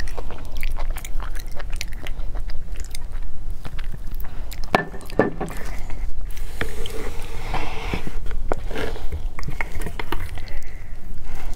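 Close-miked chewing and biting of a mouthful of noodles, with many short clicks of wooden chopsticks against a metal pot as grilled eel and noodles are moved about in it.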